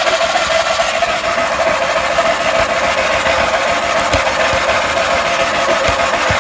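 1975 Sears SS18 garden tractor's twin-cylinder Onan engine running steadily just after starting, on the last of its fuel.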